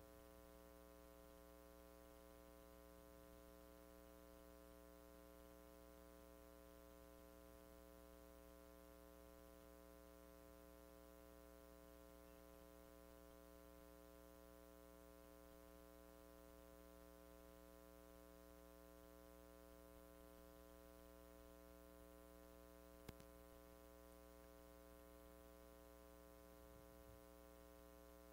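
Near silence: a steady electrical hum, with one faint click about three-quarters of the way through.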